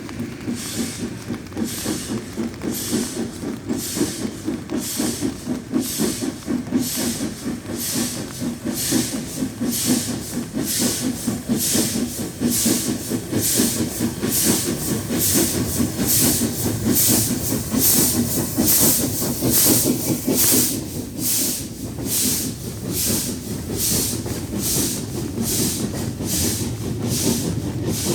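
Steam locomotive working hard, its exhaust chuffing in a steady rhythm of about two to three beats a second over the rumble of the train.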